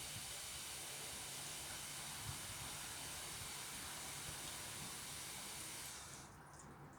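Water running steadily from a tap, shut off about six seconds in.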